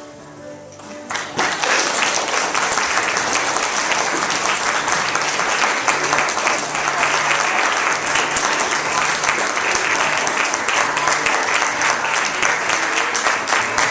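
Audience applauding, the clapping swelling in about a second in as a few held musical notes die away, with voices mixed into the crowd.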